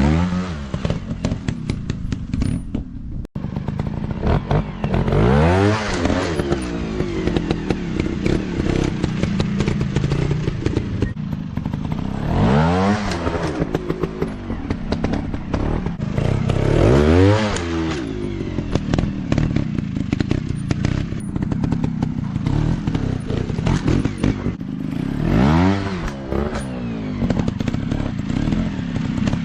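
Off-road motocross bike engine running under load, revved up and back down about four times.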